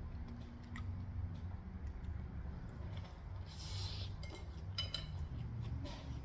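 Light clicks and clinks of kitchen utensils and dishes being handled, with a short rustle about three and a half seconds in, over a low steady hum.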